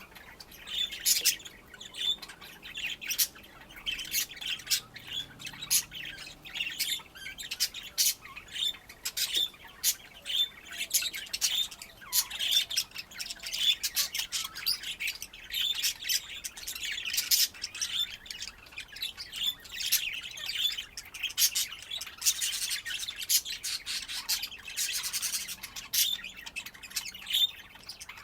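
A flock of pet budgerigars chattering continuously, with a dense run of short chirps, squawks and clicks.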